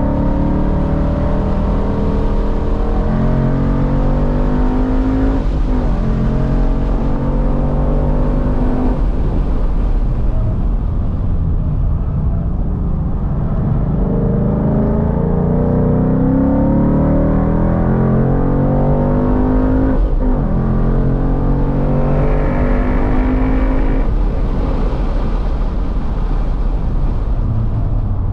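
Ford Mustang engine heard from inside the cabin under hard acceleration on track, its pitch climbing through the gears with short breaks at several upshifts, then easing and climbing again later on.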